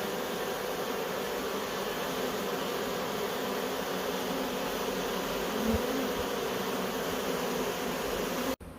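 Loud, steady buzzing of a honeybee swarm massed at a nuc box, many bees fanning at the entrance to spread the queen's scent now that she is inside. The buzz drops off abruptly just before the end.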